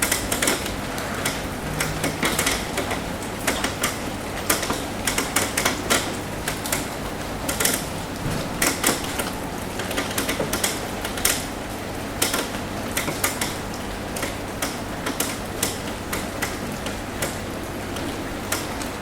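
Rain on a roof: a steady hiss of rainfall with many irregular sharp taps from individual drops striking the roof.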